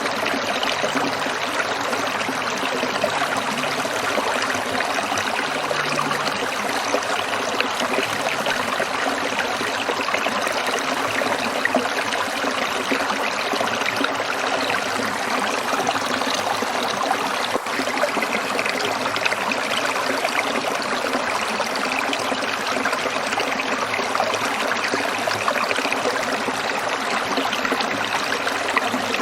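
Stream water trickling, a steady even splashing with no pauses.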